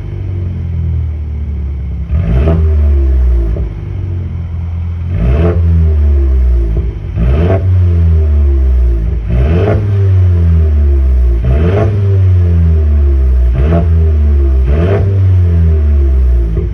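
Mercedes A200 engine with its exhaust silencer deleted for a straight stainless-steel pipe, blipped repeatedly: about seven quick revs, each falling back toward idle.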